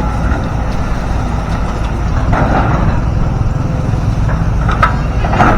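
Excavator's diesel engine running steadily, with a few short knocks about two seconds in and again near the end.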